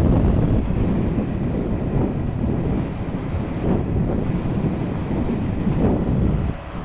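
Wind rushing over the microphone of a motorcycle riding at speed, a steady low roar of wind and road noise; it dips briefly near the end.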